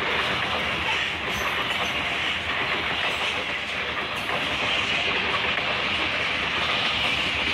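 Covered hopper cars of a freight train rolling past at a grade crossing: a steady, loud rolling noise of steel wheels on the rails.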